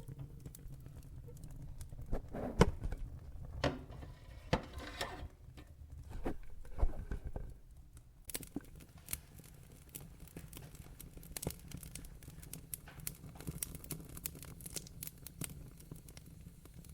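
Log fire crackling in a fireplace: a low steady rumble under sharp pops and snaps, with a few louder pops in the first half and quicker, finer crackles after.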